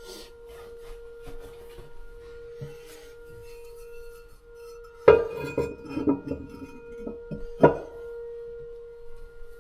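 Toilet fill valve whistling with a steady tone as the tank refills, with two sharp clunks about five and seven and a half seconds in.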